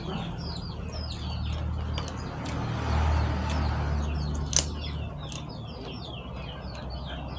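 Birds chirping: a steady run of short, high, falling chirps, two or three a second, over a low rumble. A single sharp click sounds about four and a half seconds in.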